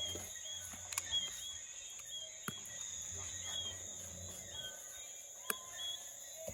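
Outdoor insect and bird ambience: a steady high-pitched insect drone with short chirps repeating about once or twice a second. A few sharp clicks land about a second, two and a half seconds and five and a half seconds in.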